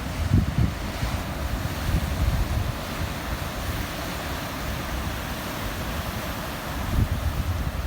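Wind buffeting the microphone in gusty low rumbles, over a steady hiss of ocean surf. The gusts are strongest about half a second in and near the end.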